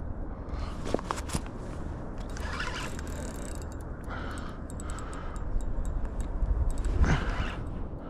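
Fishing reel and tackle clicking and scraping while a hooked fish is fought from a kayak, over a steady low rumble of wind on the microphone, with a heavy breath about seven seconds in.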